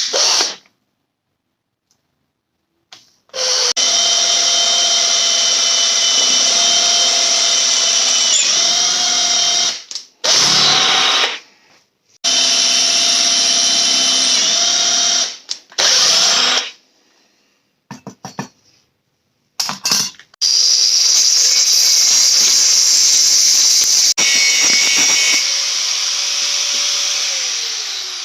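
Handheld electric power tool working steel, running in several stretches of a few seconds each with silent gaps between. Near the end its pitch falls as the motor winds down.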